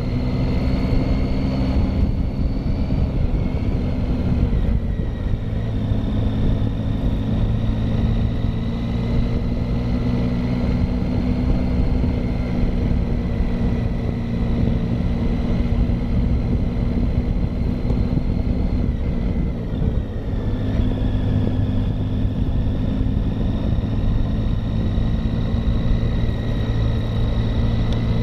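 Triumph Tiger motorcycle engine running steadily under load on a climb, over a constant rush of wind noise. The engine note shifts about four seconds in and again about twenty seconds in, as with gear or throttle changes.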